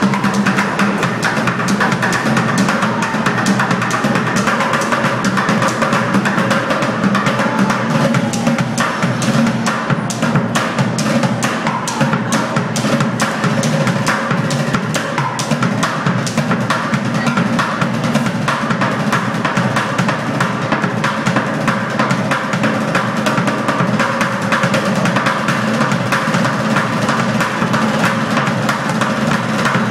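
Bucket drummers playing pails with sticks: a loud, fast, unbroken stream of strokes with quick rolls, busiest from about ten to fifteen seconds in.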